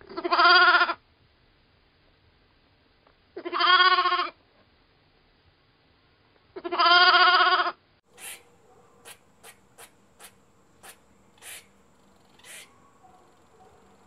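Lambs bleating: three loud, drawn-out bleats about three seconds apart. After them comes a series of short, faint high ticks.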